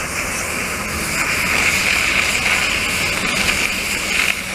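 Demolition machinery running steadily on the site, a constant mechanical noise with a high hiss over it.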